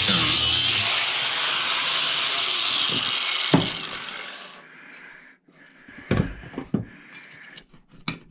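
A power tool cutting scrap metal, running loud with a pitch that wavers under load, with a sharp knock about three and a half seconds in. It then winds down and stops, and a few light knocks follow.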